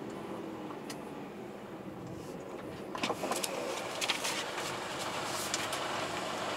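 A vehicle engine idling with a steady low hum; from about three seconds in, a run of sharp clicks and rattles joins it.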